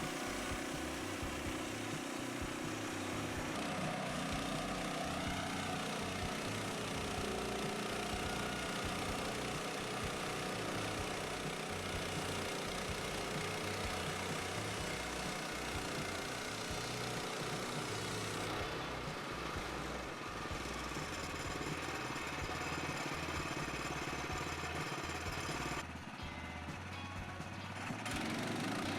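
Engine of a Woodland Mills HM122 portable band sawmill running steadily, with background music laid over it.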